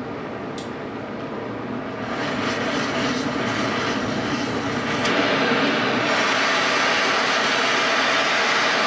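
Oxy-fuel cutting torch hissing steadily as it starts cutting through thick steel. It grows louder in steps about two seconds in and again about six seconds in.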